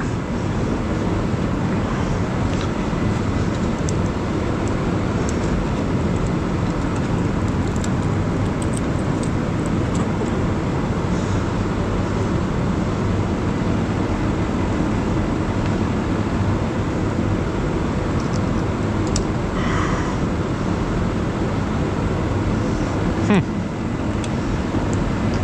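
A steady low rumbling background noise, with a few faint clicks and ticks near the end.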